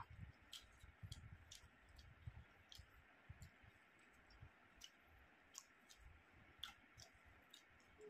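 Faint eating sounds: scattered small wet mouth clicks and smacks, roughly one or two a second, over soft low thuds of chewing.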